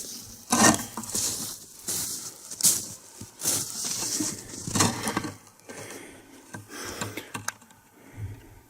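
Irregular crunching and rustling, with about a dozen short noisy bursts that thin out and fade near the end: the camera being picked up, carried and set down again, with footsteps in snow.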